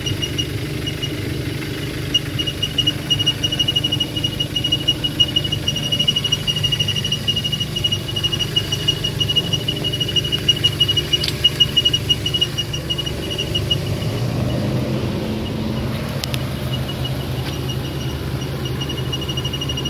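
Vehicle engine idling with a fast, even high-pitched chirping squeak over its low hum: a squeak or whistle whose source the owner cannot locate.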